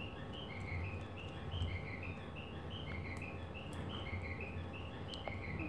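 A bird chirping in the background: short, quick chirps repeated several times a second, over a low steady hum.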